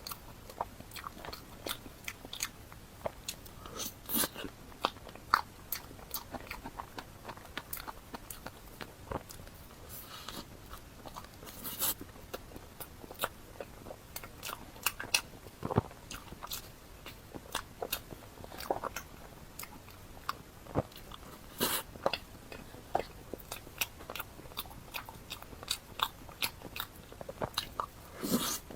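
Close-miked eating sounds: a person biting and chewing, with many quick, irregular crunches and mouth clicks.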